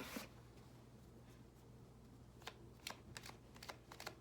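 Tarot cards being handled and shuffled: a brief rustle at the start, then after a quiet stretch a run of light card flicks and snaps, a few a second.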